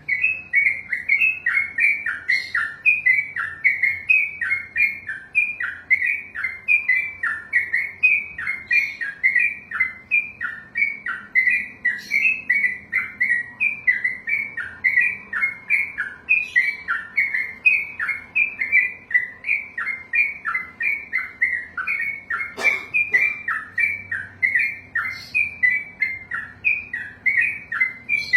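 Yellow-vented bulbul (trucukan) singing a long unbroken 'ropel' run: a steady string of short falling notes, a few a second, kept up without a pause. A single sharp knock about 23 seconds in.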